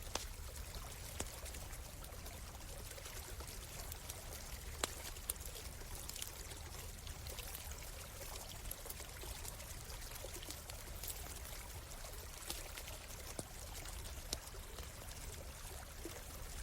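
Forest stream flowing and trickling steadily, with a campfire crackling: a few sharp pops scattered through, about seven in all.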